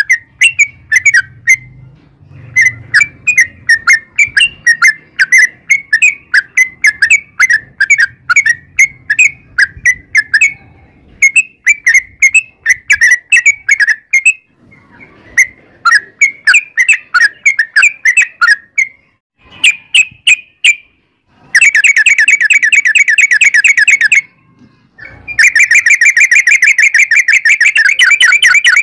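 Yellow-vented bulbul (trucukan) singing: fast runs of short chirping notes, then in the last third two long, dense rapid trills (the "ropel" chatter) of a few seconds each.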